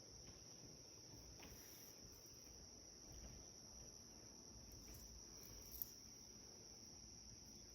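Faint, steady high-pitched chorus of crickets trilling continuously, with one brief sharp click just before six seconds in.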